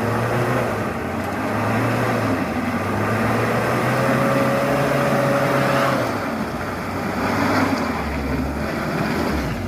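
Heavy truck's diesel engine running under load, its pitch rising slowly for a few seconds and then falling away about six seconds in. Near the end it settles lower.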